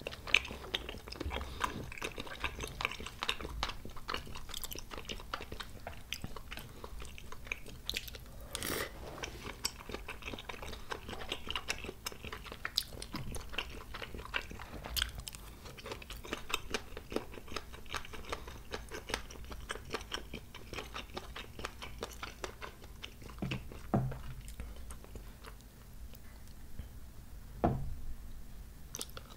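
Close-miked chewing of chewy spicy tteokbokki rice cakes and fish cakes: a steady run of wet, sticky mouth and lip sounds with small irregular clicks, and a few louder bites.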